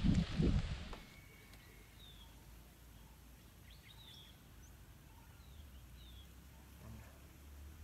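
A few short, faint bird chirps, each a quick falling note, repeated at intervals over quiet outdoor ambience with a low hum. About a second in, a louder stretch of voices and water noise cuts off suddenly.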